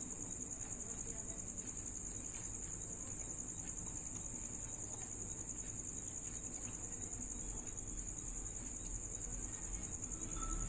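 Crickets chirping in one continuous high, even trill, with faint crunches from eating pani puri scattered through it.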